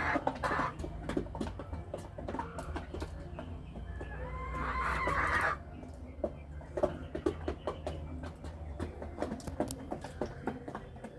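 Chickens clucking and pecking at their feed, with many short taps throughout. A rooster gives one long crow that grows louder from about four seconds in and cuts off suddenly.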